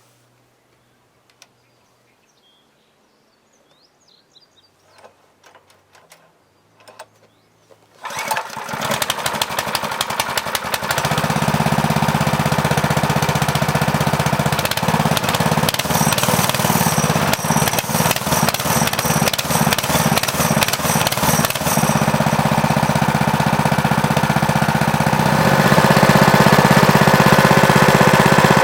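Baja Warrior mini bike's 196cc single-cylinder Honda-clone engine on its first cold start: a few faint clicks, then about eight seconds in the engine catches and builds up to a steady running note. It gets louder near the end.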